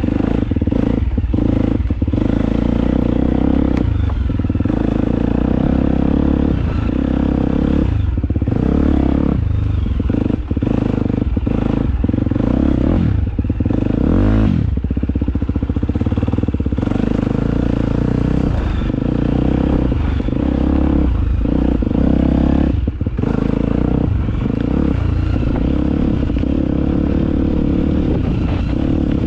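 Motocross bike engine running and revving as the bike is ridden around a dirt track, with brief dips in the sound scattered throughout.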